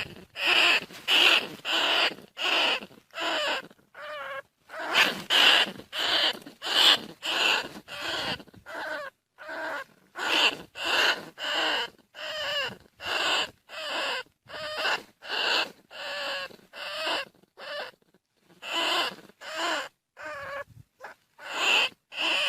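Greater bandicoot rat squealing: a rapid series of short, high-pitched squeals, about two a second with a few brief pauses, the recorded call used as a hunting lure.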